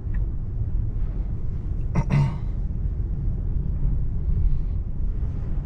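Low, steady rumble of tyres on a wet road, heard inside a Tesla Model 3's cabin. About two seconds in there is one brief throat-clearing sound.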